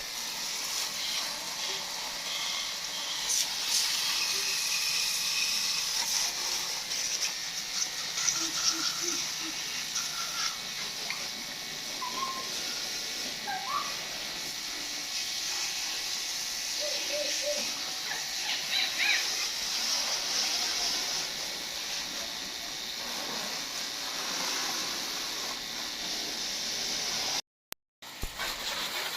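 Steady hiss of water spraying, broken now and then by short, high chirps and squeaks. The sound cuts out briefly near the end.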